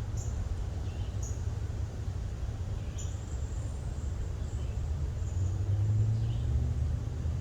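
Low rumble of distant road traffic that swells with a steady engine hum about six seconds in. Over it, short high bird chirps repeat about once a second.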